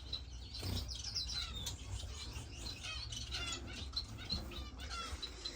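Many captive finches chirping and calling together, short high notes overlapping throughout, over a low steady hum.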